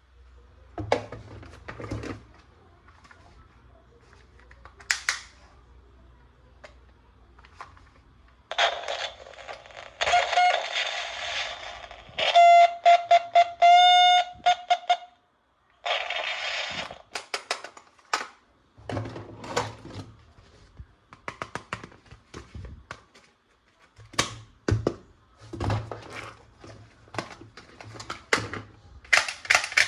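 Battery-powered toy guns being handled and triggered: plastic clicks and knocks throughout, a loud electronic sound-effect stretch of buzzing and warbling tones in the middle, and a rapid electronic firing rattle starting near the end.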